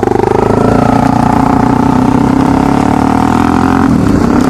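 Honda CRF250L dirt bike's single-cylinder four-stroke engine running under way, its pitch rising a little at first, then holding steady, easing off about four seconds in.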